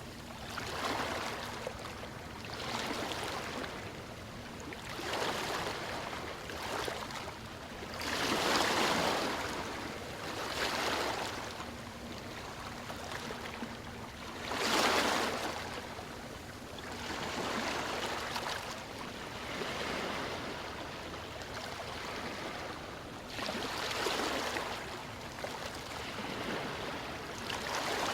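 Ocean waves washing in, the water noise swelling and easing every two to three seconds, the largest surges about nine and fifteen seconds in.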